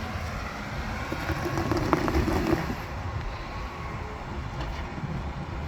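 Jeep Wrangler engine rumbling under a low-speed rock crawl and briefly revving up about one and a half seconds in as the Jeep is bumped over a boulder, with a sharp knock near the peak.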